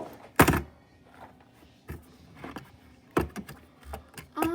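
Scattered knocks and clicks from handling balloon fidgets. The loudest is a sharp thump about half a second in, followed by a few lighter taps.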